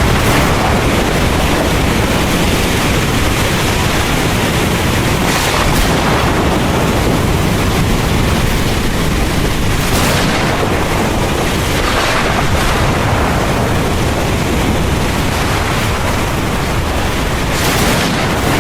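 Heavy rain falling steadily over a deep continuous thunder rumble, with a few brief louder hissing swells about every five seconds.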